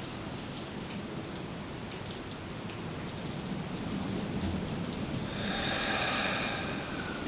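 Steady rain and storm noise, and a person's deep breath: a slow intake, then a long, audible exhale through the mouth in the last couple of seconds.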